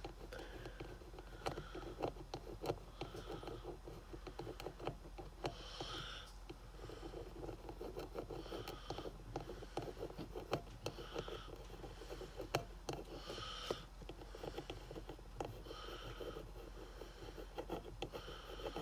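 A pen coloring in a small HVAC logo badge: faint scratching and short squeaks every couple of seconds as the tip is stroked over the badge, with scattered light clicks from handling.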